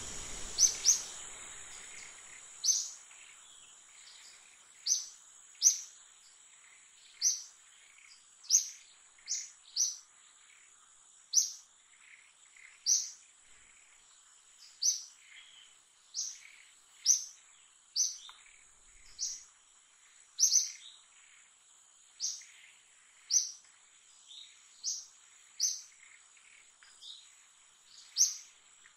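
A bird's short, high chirp repeated about once a second, over a steady high-pitched whine.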